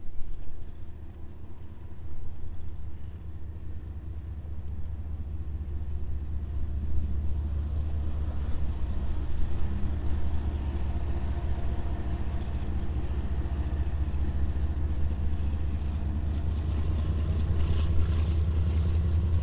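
Diesel freight locomotives running, a deep steady engine drone that grows louder over the first several seconds and then holds.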